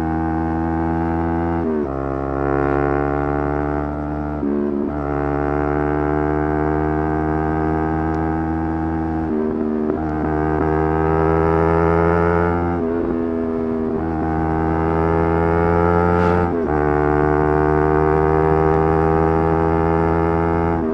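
Yamaha R3's parallel-twin engine running hard at high revs, its pitch slowly climbing, broken about five times by brief drops in pitch as it changes gear.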